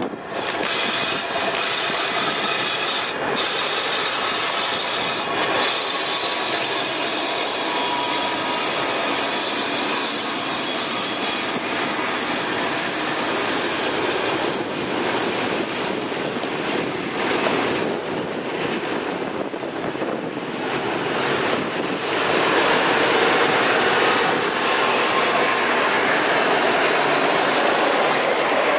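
A diesel-hauled work train of Plasser & Theurer MFS 40 wagons passing close by on a curve: a steady rush of wheels on the rails with high-pitched wheel squeal. It grows louder about twenty-two seconds in.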